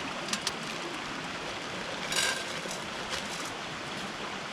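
Steady hiss of rain falling in the rainforest, with a few short clicks in the first half second and a brief rustle a little over two seconds in.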